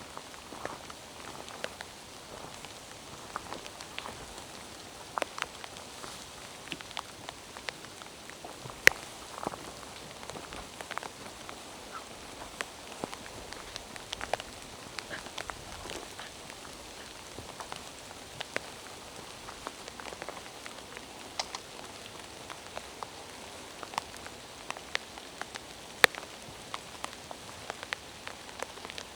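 Rain falling in a forest: a steady hiss of rain with many irregular, sharp drops landing close by, a few much louder than the rest.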